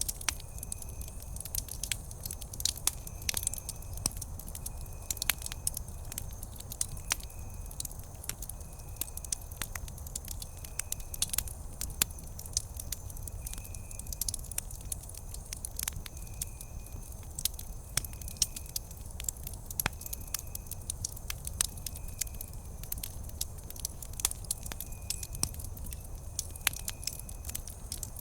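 Wood campfire crackling, with frequent sharp pops over a low rumble of the flames. A faint high chirp repeats every second or two behind it.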